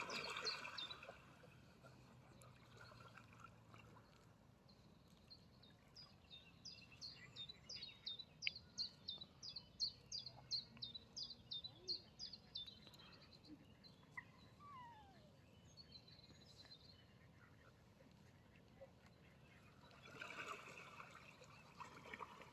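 A small songbird singing a long run of quick, high, down-slurred chirps repeated about twice a second, over faint outdoor background noise.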